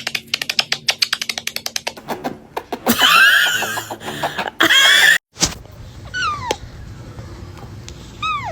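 A cat letting out two loud, wavering meows about three and five seconds in, after a quick run of clicking. A few short falling whistles follow near the end.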